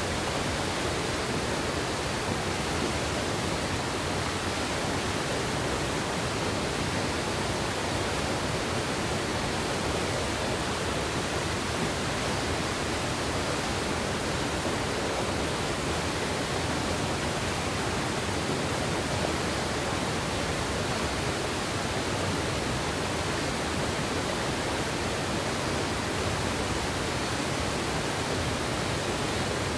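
Mountain river water rushing steadily, a constant even wash of sound with no breaks or changes.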